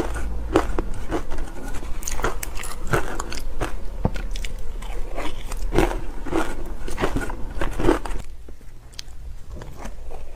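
Close-miked ice being bitten and chewed: a dense run of crisp crunches that eases off about eight seconds in.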